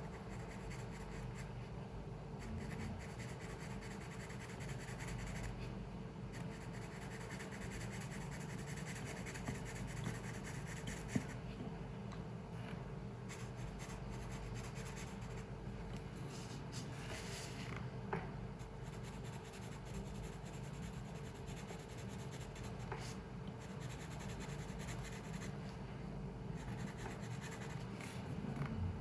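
Pencil strokes scratching and rubbing on paper while drawing, over a steady low hum of the workspace, with one sharp tap about eleven seconds in.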